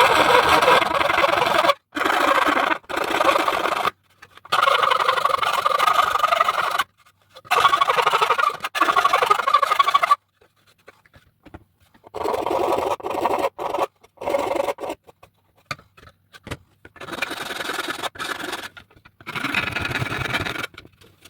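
Hand file rasping along the edges of 3D-printed plastic pieces to smooth them, in bursts of quick strokes with short pauses between.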